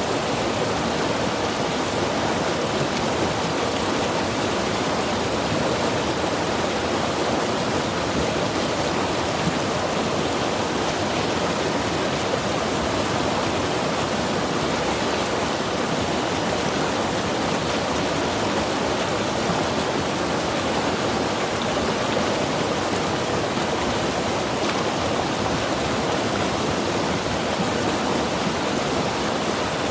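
Mountain river rushing over rocks, a steady, unbroken roar of water without any single splashes standing out.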